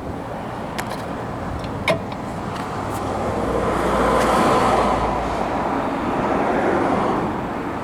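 Road traffic noise from a passing vehicle, swelling to a peak about halfway through and easing off, with a sharp click about two seconds in.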